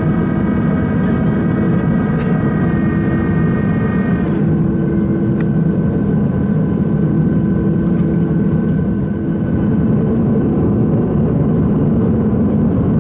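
Boeing 737-600 jet engines heard from inside the cabin: a loud, steady rumble with a whine that drops slightly in pitch and fades out about four seconds in.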